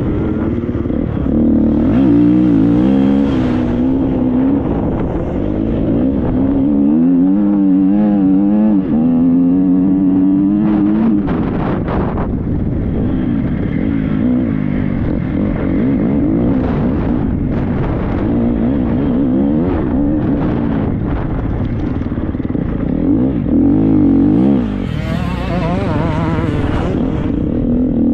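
Triumph 250 motocross bike's four-stroke single-cylinder engine being ridden hard off-road, its revs rising and falling over and over as the throttle is worked. There are a few sharp knocks about eleven to twelve seconds in.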